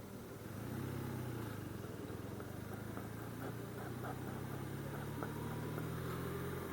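BMW R1200RT motorcycle's boxer-twin engine running low and steady in slow traffic, getting louder about half a second in.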